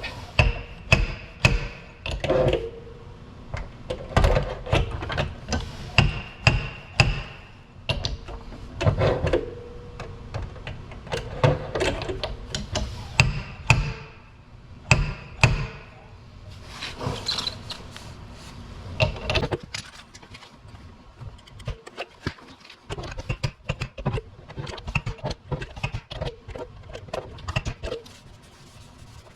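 Irregular series of sharp metal knocks and taps on the steel of a crushed door panel, some ringing briefly, as a dent along a body line is worked out with pull pins and hammer. The blows ease off for a moment past the middle, then go on as lighter, quicker taps.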